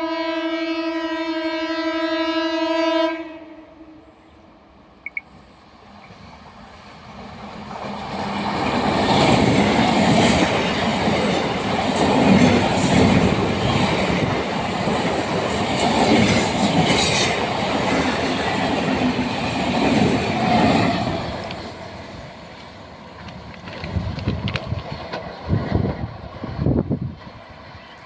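A train horn gives one long, steady blast for about three seconds. Then a train passes: the rumble of wheels on rails builds from about eight seconds in, stays loud until about twenty seconds in, and fades, with some wheel clatter near the end.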